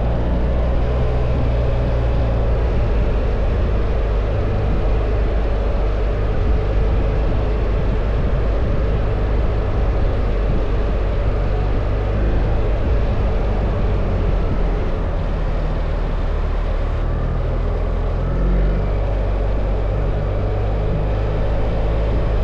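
BMW R1300 GS motorcycle riding at a steady pace: its boxer-twin engine runs under heavy wind rush on the microphone. The engine note changes briefly about three quarters of the way through.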